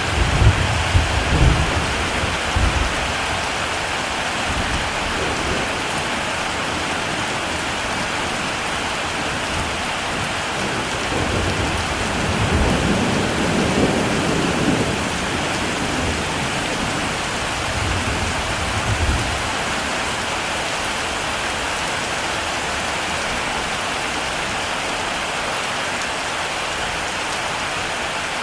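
Heavy rain falling in a steady hiss, with low rumbles of thunder: a few in the first three seconds, a longer rumble about halfway through, and a shorter one a little later.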